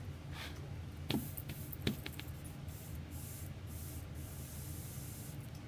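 Two sharp clicks about a second in, then several stretches of hissing rustle, over a steady low hum.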